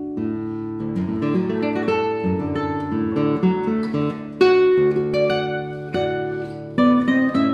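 Acoustic guitar music: plucked notes and chords, each struck and left to ring.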